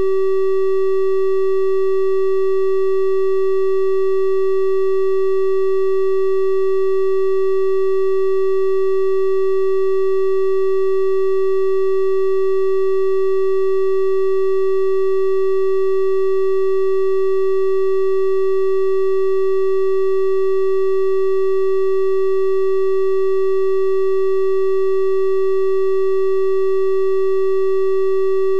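A steady synthesized 384 Hz triangle-wave tone, held without change, with faint higher overtones above the main pitch.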